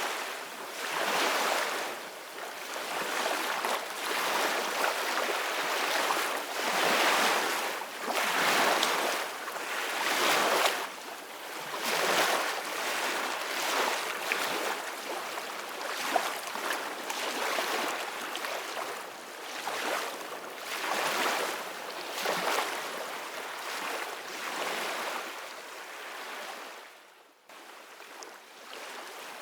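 Ocean waves breaking and rushing on a shore, the surf surging in and out every couple of seconds. Near the end the sound drops away briefly, then comes back.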